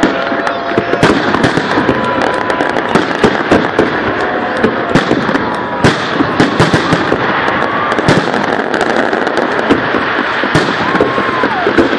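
Fireworks salute: many sharp bangs and crackles of bursting shells in quick, irregular succession over a continuous dense noise.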